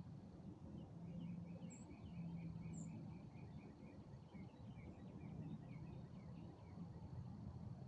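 Faint outdoor evening ambience: a bird gives a run of quick chirps over a low, steady background hum, with a thin high steady tone and two brief high notes above.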